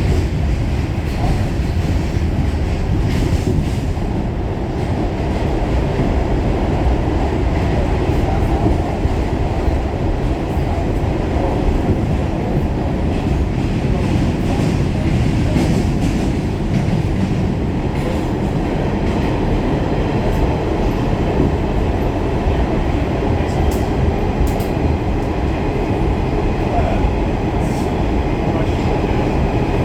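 Pullman Standard R46 subway car running between stations, heard from inside the car: a steady rumble of wheels and running gear with some clickety-clack over the rail joints.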